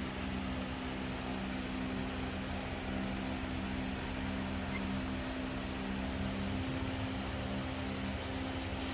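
Steady mechanical hum with a couple of low, even tones, and a few light clicks near the end.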